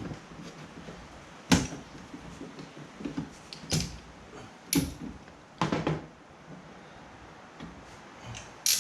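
Hard clacks and knocks as the removed windshield wiper arms and hand tools are handled and set down. There are about five sharp strikes spread over several seconds, the loudest about a second and a half in.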